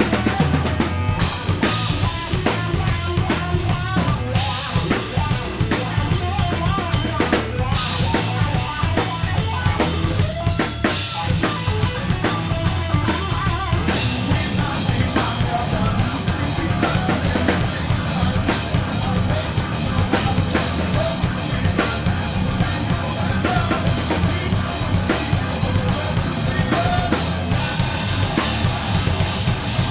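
Live rock band playing through a PA, drum kit driving a steady beat with bass drum and snare under guitars; the sound thickens about halfway through.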